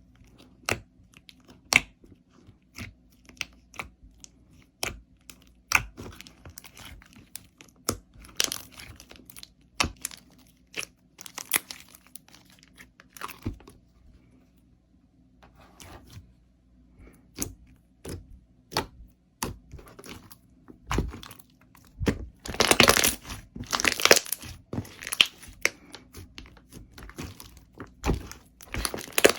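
Slime being squeezed and poked, giving irregular sharp pops and crackles, with a dense run of loud crackling about two-thirds of the way in.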